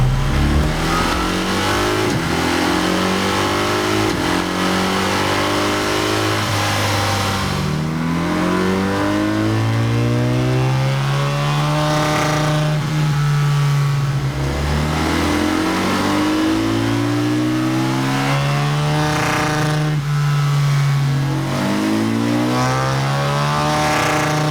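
BMW R 1300 GS boxer twin on a Dr. Jekill & Mr. Hyde aftermarket exhaust, run hard on a dyno. The engine note climbs and falls in repeated sweeps, roughly one every seven seconds.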